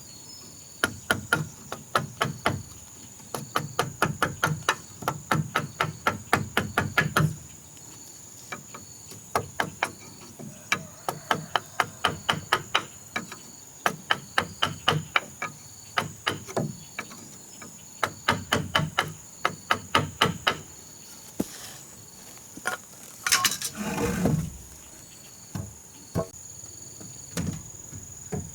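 A hammer striking nails into wood in quick, even runs of blows, several series with short pauses between. A brief rasping noise comes about two-thirds of the way through, and a steady high insect drone, like crickets, runs underneath.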